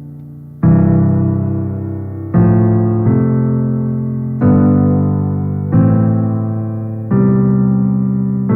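Solo piano playing a slow introduction: six sustained chords struck one after another, each left to ring and fade before the next.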